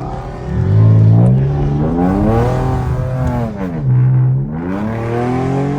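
A car engine revving up and down. Its pitch climbs over about two seconds, holds, drops sharply near the middle, then climbs again.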